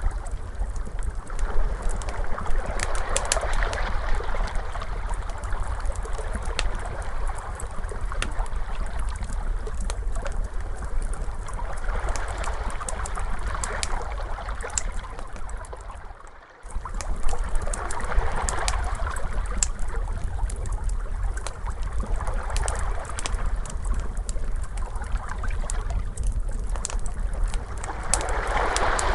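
Ocean waves washing in slow swells every several seconds, layered with the crackle and pops of a wood fire and a steady low rumble. A little past halfway the sound drops out sharply for about half a second, then resumes.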